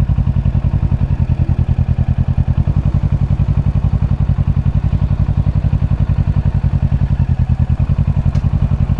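Kawasaki Ninja 650's parallel-twin engine running steadily with an even, rapid pulsing beat and no revving.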